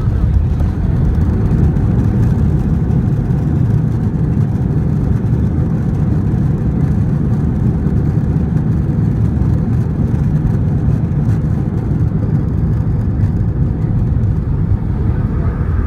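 Steady low rumble of jet engines and airflow heard from inside an airliner cabin, even in level throughout.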